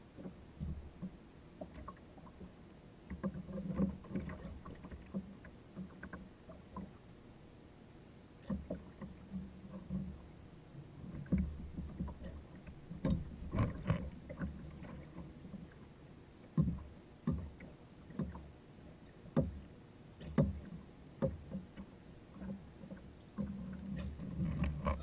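Irregular knocks and thuds on a plastic Hobie Outback fishing kayak as it is moved about, over a low steady rumble.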